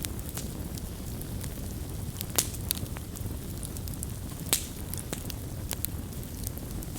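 Wood campfire crackling and popping: a steady low rumble of flames with scattered sharp snaps, two of them louder, about a third of the way in and again past the middle.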